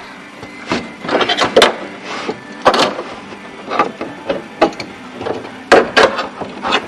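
Irregular knocks and clunks of hand work on a pickup truck door's window and lock parts, a dozen or so sharp strikes at uneven spacing.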